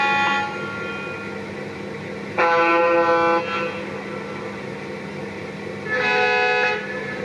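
Model diesel locomotive's onboard sound system, a Lionel Chicago & North Western GP30, sounding three short air-horn blasts about a second each: one right at the start, one about two and a half seconds in, one about six seconds in, each a different horn choice. A steady engine hum runs underneath.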